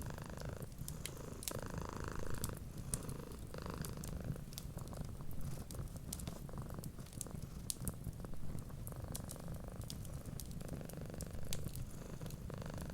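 A cat purring steadily, its purr swelling and easing in a slow cycle of about a second, with the sharp scattered crackles of a wood fire throughout.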